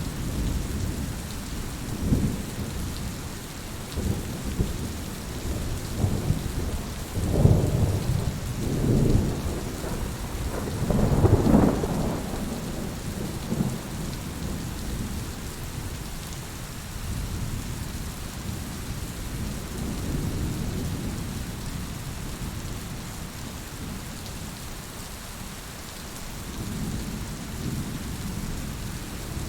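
Heavy rain falling steadily, with thunder rumbling low underneath. The loudest rolls of thunder swell up in the first half, and a fainter one comes near the end.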